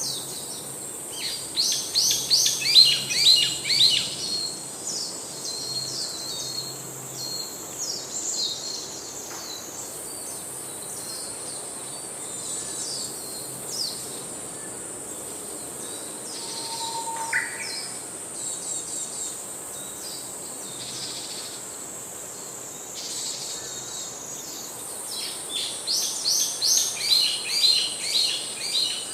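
Songbirds singing in two loud bursts of fast repeated chirping notes, one near the start and one near the end, with scattered softer chirps between, over a steady high-pitched insect buzz.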